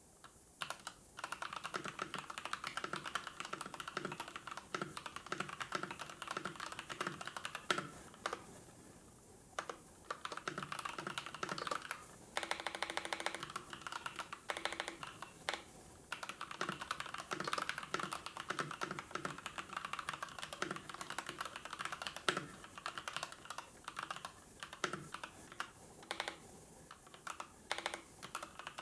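Typing on a computer keyboard: runs of key clicks in quick succession, broken by brief pauses, with a short run of fast, even clicks a little before halfway.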